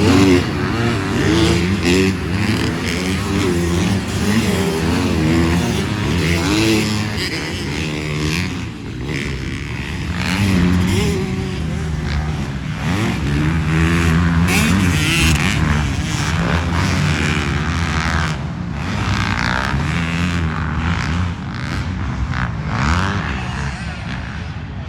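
Motocross dirt bike engines racing on the track, revving up and down repeatedly as the riders work the throttle.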